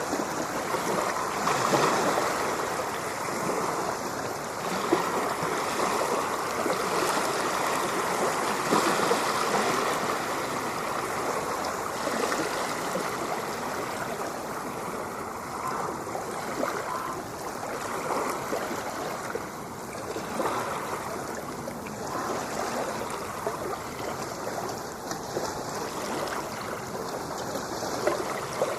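Ocean waves washing ashore: a continuous rush of water that swells and eases irregularly, loudest in the first ten seconds.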